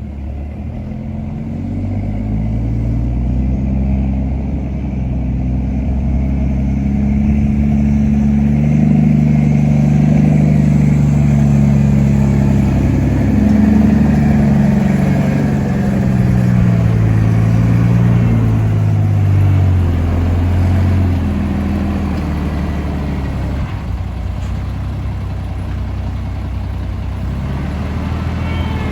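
Heavy diesel engine working under load. Its pitch and loudness build over the first few seconds and hold high for a while. Then it drops back about two-thirds of the way through and runs steadier at a lower pitch.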